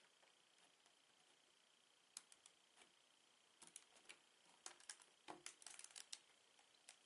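Faint clicks and rattles of plastic Lego pieces being handled and snapped together. A few single clicks come first, then quick clusters of clicks in the second half.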